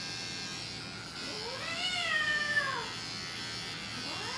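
Cat meowing while being shaved: one long, drawn-out meow that rises and falls about a second and a half in, and another starting near the end, over the steady buzz of electric hair clippers.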